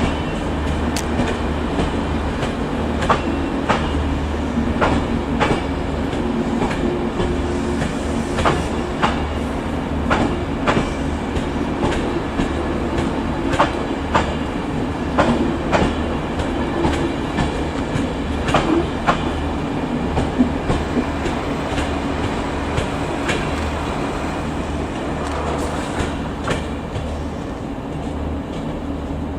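The Enterprise train hauled by an NIR 201 Class diesel locomotive moving through the station, its wheels clicking irregularly over rail joints above the steady hum of the locomotive's two-stroke V12 diesel engine.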